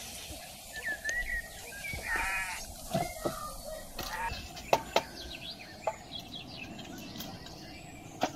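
A short bleat about two seconds in, then several sharp wooden knocks as split firewood logs are pulled from a stacked woodpile and clack against each other.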